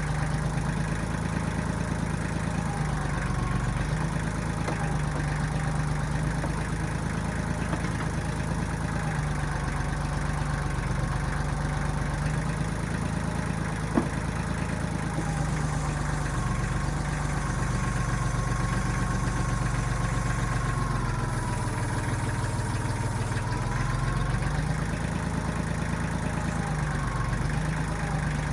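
Engine of a 1995 Kubota backhoe running continuously while it works, its note shifting down and back up again and again. There is a single sharp knock about halfway through.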